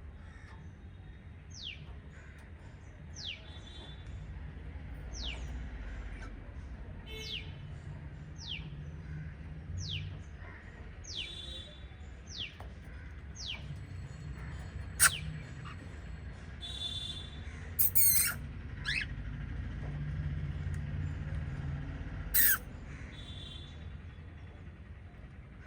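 Pet cockatiels and budgerigars calling: a short falling chirp repeated about every second and a half, then a few louder, sharp calls near the middle and toward the end.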